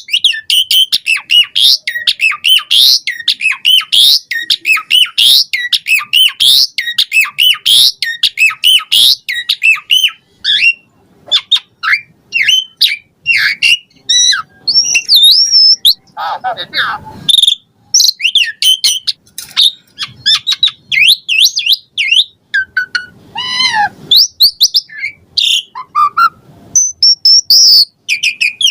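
Asian pied starling singing a long, rapid, varied song of chirps, whistles and quick rising and falling notes, full of mimicked phrases. Lower, harsher phrases break in about halfway through and again near the end.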